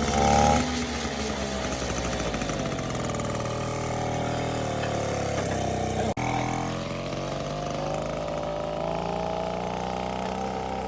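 Classic motorcycle engines running, their pitch rising and falling slowly as they rev and ease off. There is a brief cut in the sound about six seconds in.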